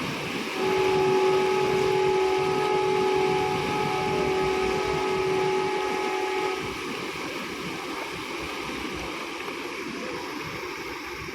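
A ship's horn sounds one long, steady blast of about six seconds over constant wind and water noise.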